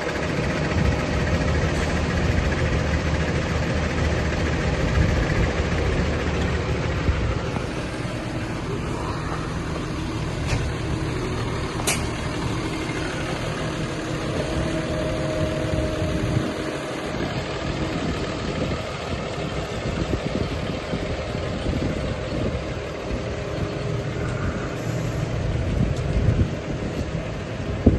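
New Holland T7-210 tractor's six-cylinder diesel engine running steadily.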